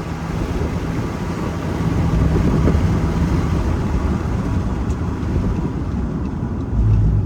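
A car being driven, heard from inside the cabin: a steady low rumble of road and engine noise, briefly louder just before the end.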